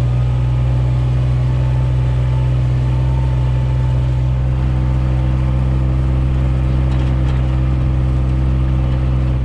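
Pickup truck engine running steadily at low speed, a deep even hum with no revving.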